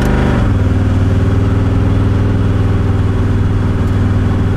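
1991 Chevrolet Camaro's engine running while driving, heard from inside the cabin. Its note changes about half a second in, then runs steadily.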